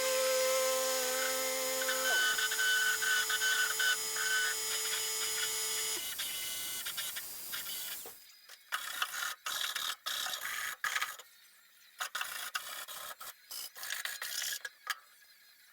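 A small high-speed power tool whining steadily, its pitch dropping about two seconds in; it stops about six seconds in. A run of short, irregular scraping and clicking sounds follows.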